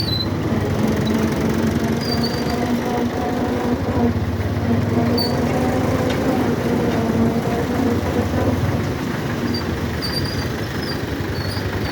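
1971 Belarus tractor's diesel engine running steadily, with a fast, even firing rhythm throughout.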